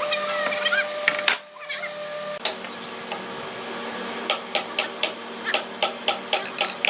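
A run of sharp taps or knocks, about three to four a second, starting about four seconds in, after a stretch of steady humming with light squeaks.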